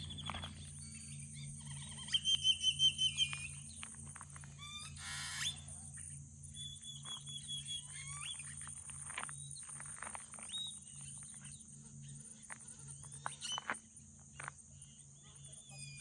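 Wild birds chirping and calling, with scattered short whistled notes and upward chirps. About two seconds in comes a quick run of about eight bright repeated notes.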